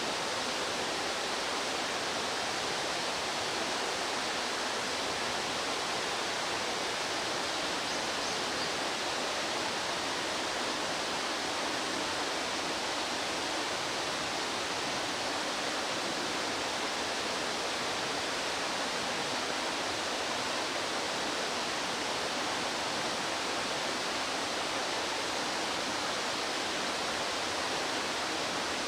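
Rushing stream water: a steady, unchanging rush of flowing water.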